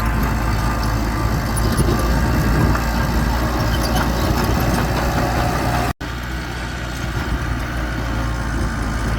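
Bulldozer's diesel engine running steadily at a low, even pitch, with faint clanking over it. It cuts out for a split second about six seconds in and resumes slightly quieter.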